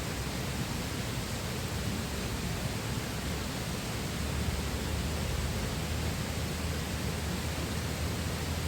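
Steady rushing of a flowing river, an even hiss with no breaks or changes.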